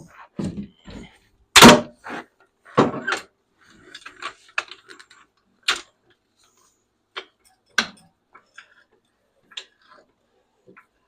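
Irregular knocks and clunks from hands-on work on the machine, with a heavy thunk about two seconds in, a couple more shortly after, and lighter knocks and clicks later.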